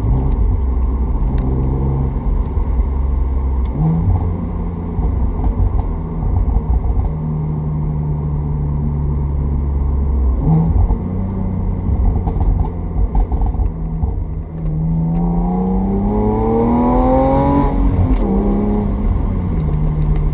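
BMW Z4 3.0i's 3.0-litre inline-six engine and exhaust while driving: the engine note jumps up twice as it is downshifted, with a few faint exhaust pops, then rises steadily under light acceleration for about three seconds before dropping at a gear change.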